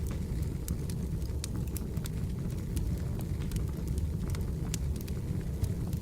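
Burning firewood crackling: irregular sharp pops and snaps, several a second, over a steady low rumble of the fire.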